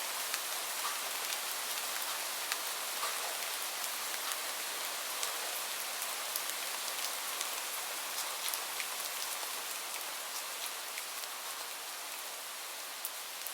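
Steady rain, an even hiss with separate drops ticking sharply through it.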